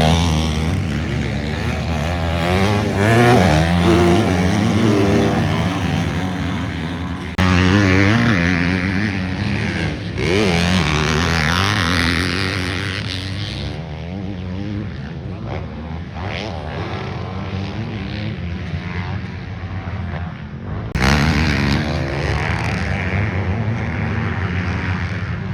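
Dirt bike engine revving up and down as it is ridden hard on a motocross track. The sound breaks off abruptly and resumes a few times.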